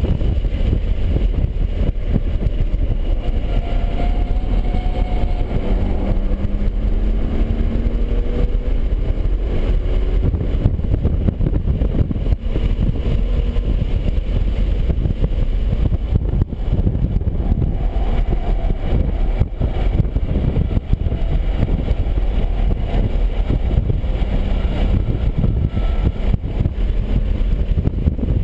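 BMW 135i's turbocharged straight-six engine driven hard on a race track under heavy wind and road rumble. The engine note climbs under acceleration several seconds in and rises and falls again past the middle.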